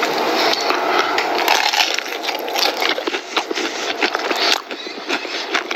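Close-miked crunching and chewing of crispy KFC fried chicken, dense with short crackles from the breaded coating.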